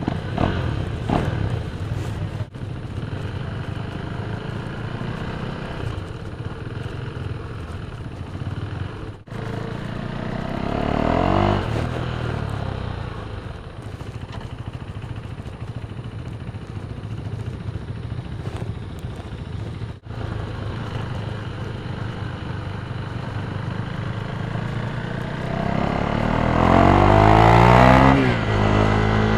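KTM Duke 390's 373 cc single-cylinder engine running through an Akrapovic exhaust, mostly at low revs, with a rise in revs about ten seconds in and a longer, louder rev-up near the end.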